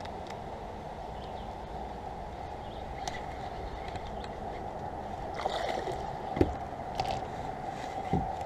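River water gurgling and sloshing against a fishing kayak's hull, with a few light knocks and clicks from gear on the boat about midway and near the end.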